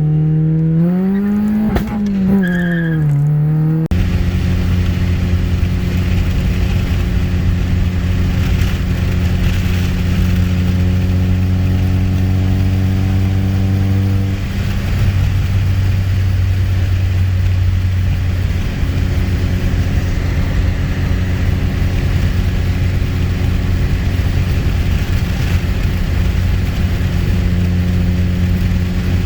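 Honda F23A four-cylinder engine in a CB7 Accord, heard while driving: the revs rise and fall in the first few seconds, then after a sudden change about four seconds in the engine holds a steady, even drone at constant revs.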